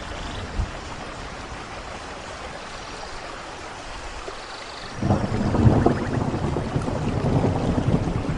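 Steady rain, then a low rumble of thunder that rolls in suddenly about five seconds in and keeps going, louder than the rain.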